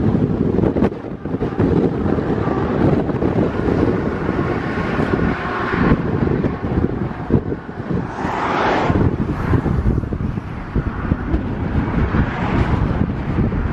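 Strong wind buffeting the microphone in a gusty low rumble, over the steady noise of a vehicle. A brief louder rush of noise comes about eight seconds in.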